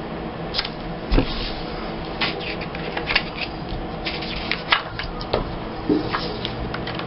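Paper and scrapbooking supplies being handled on a tabletop: scattered rustles, small clicks and taps, with one heavier thump about a second in.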